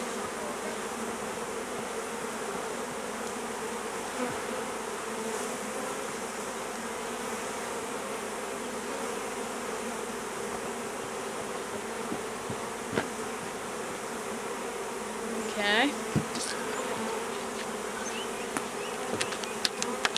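A newly hived swarm of honeybees buzzing steadily around their hive box, a dense, unbroken hum of many bees. A few small clicks near the end.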